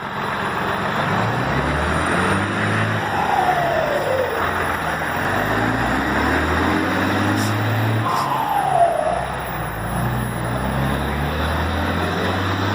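Volkswagen 23220 truck's diesel engine running, its pitch stepping up and down under a steady rushing noise. A short falling whine comes twice, about three seconds in and again around eight seconds.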